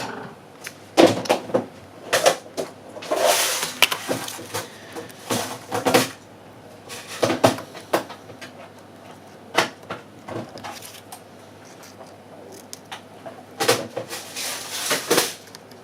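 Irregular clicks, taps and short scraping sounds of small tools and phone parts being handled during an iPhone 6 screen repair, with a few longer rustling scrapes in between.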